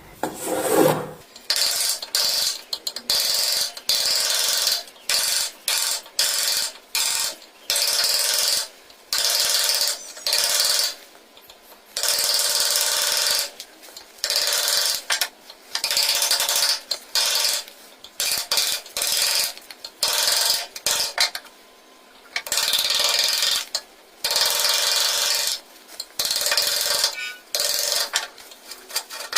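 A tool scraping wood in many short repeated strokes, each half a second to about two seconds long, with brief pauses between.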